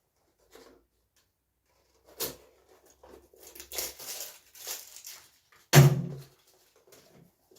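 Packaging rustling and crinkling as items are handled and unwrapped, with a sharp click a little after two seconds and a louder, deeper, briefer sound shortly before the end.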